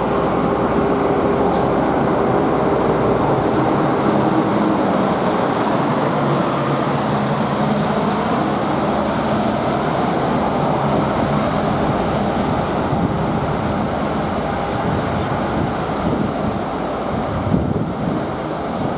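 A train moving past at close range: a steady, loud rumble of wheels on the rails with faint steady tones over it, easing a little near the end.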